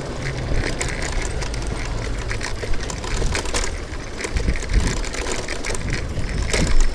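City street noise heard from a moving bicycle: a steady low rumble of road and traffic, with frequent small clicks and rattles and a heavier low thump about two-thirds of the way through.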